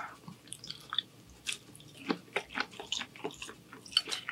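Close-miked chewing of shrimp angel hair pasta: a run of irregular mouth clicks, several a second.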